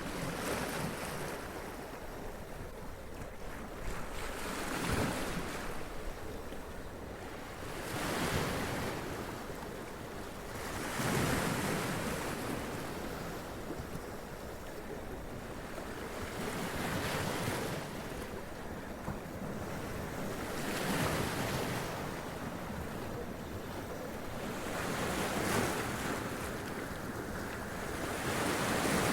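Sea waves washing up onto rocks, each one a swelling hiss of splashing water that comes every three to four seconds over a steady background wash of surf.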